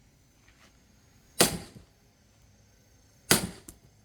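Sledgehammer blows on a log being split for firewood: two sharp strikes about two seconds apart, each with a short ringing decay.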